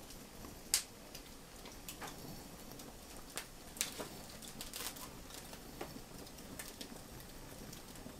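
Wood fire crackling in an open fireplace: irregular sharp pops and snaps over a faint steady hiss.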